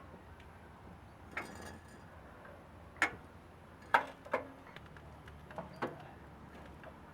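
Scattered sharp clicks and knocks of hand tools and parts being handled during work on the motorcycle, the loudest about three and four seconds in, over a faint steady low hum.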